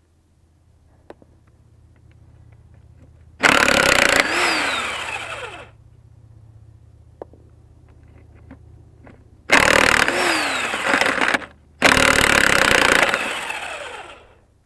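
A motor run in three short bursts, each starting abruptly and winding down with a falling pitch, over a faint steady low hum.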